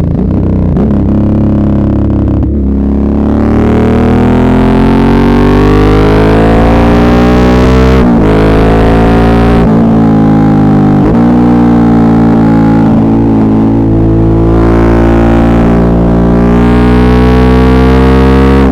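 Suzuki V-Strom 650's V-twin engine under way, its note climbing as the bike accelerates and dipping at short breaks where it shifts gear several times.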